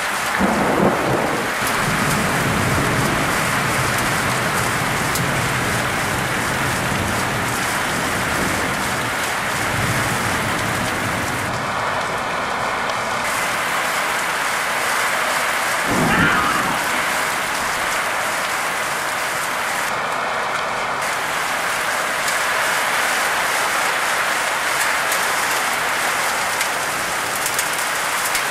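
Heavy rain falling steadily, with low rumbles of thunder in the first few seconds and again around nine seconds in. A brief louder sound rises and falls about sixteen seconds in.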